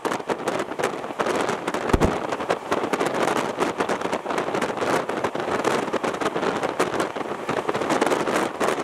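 Running noise of an Indian Railways train heard from inside the coach: a steady rush of track and wind noise, full of small clicks and rattles, with one low thud about two seconds in.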